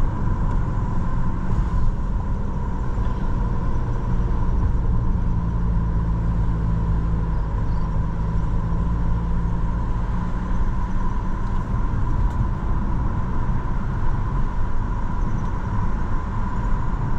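Steady road and engine rumble inside a moving car's cabin, with a faint steady whine above it.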